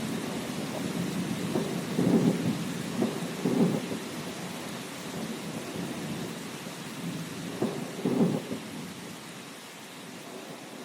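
Thunderstorm: steady rain hiss under rolling thunder that swells several times, strongest about two seconds in and again about eight seconds in, then dies away near the end.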